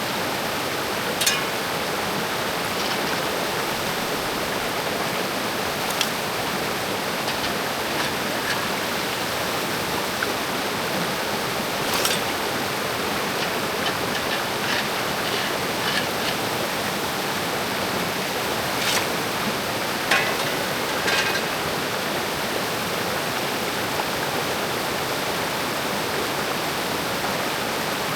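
Mountain creek water rushing steadily over rocks. A few short, sharp clicks and knocks break through it now and then, with a small cluster of them about two-thirds of the way in.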